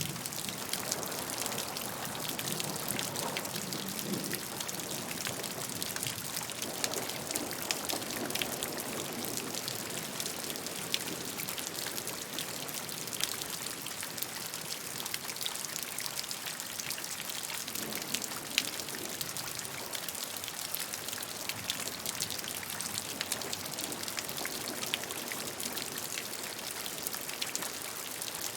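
Steady rain falling, an even hiss with many separate drop hits heard through it.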